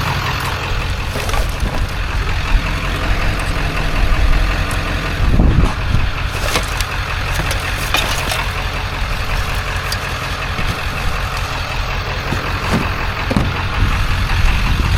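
Truck engine running steadily, a low rumble, with a few scattered knocks and clanks, the loudest about five seconds in.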